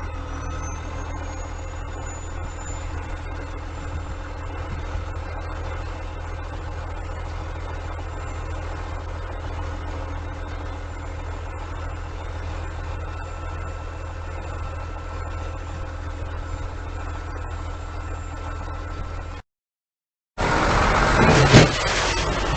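Dump truck's diesel engine running steadily with a low rumble. About nineteen seconds in the sound cuts out for a moment, then a louder rush of wind-like noise with a sharp hit follows.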